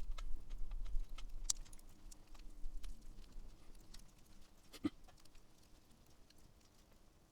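Wood campfire crackling, with scattered sharp pops and ticks. About five seconds in there is one brief, sliding low-pitched sound.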